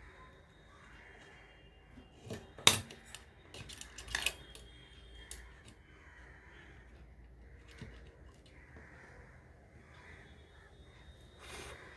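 A few sharp clicks and clatters of small tools and parts being handled on a workbench, the loudest about two and a half seconds in and another just after four seconds.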